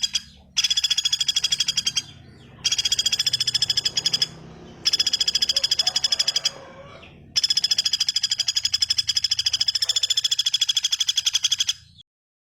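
A bird giving a rapid, even trill, a dozen or more notes a second. It comes in bouts of one to four seconds with short breaks between them and stops abruptly near the end.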